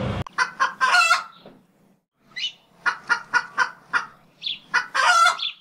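A run of short, high-pitched bird-like calls in quick groups, including an even run of about four calls a second around the middle, with short gaps between groups.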